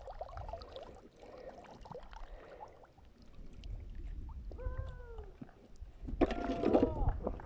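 An animal calling: one drawn-out, meow-like call about halfway through, then louder calls of the same kind near the end.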